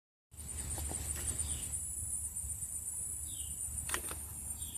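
Outdoor ambience of insects trilling steadily at a high pitch, with three short, falling bird chirps over a low rumble. A sharp click comes about four seconds in.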